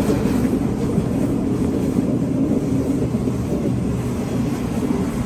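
Sydney Trains Tangara (T set) double-deck electric passenger train running past along the platform: a steady, loud low rumble.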